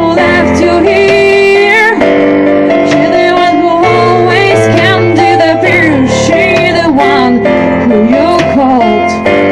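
A band playing a song live: a woman sings a wavering, gliding melody over sustained keyboard chords, bass and guitar, with steady drum hits.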